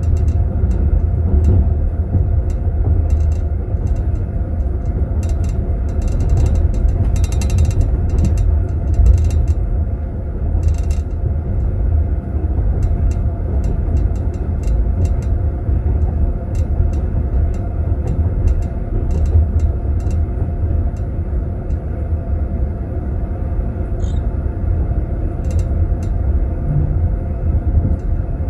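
Sleeper-compartment interior of a moving passenger train: the steady low rumble of the running carriage, with scattered light clinks and rattles of teaspoons in tea glasses in their holders, clustered about a third of the way in.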